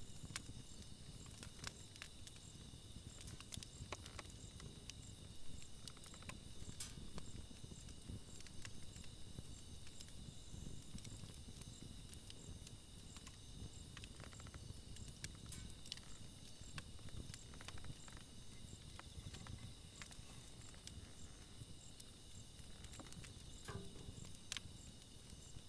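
Campfire burning, wood crackling and popping in scattered sharp clicks over a low rumble of flame, with a steady high insect trill behind it.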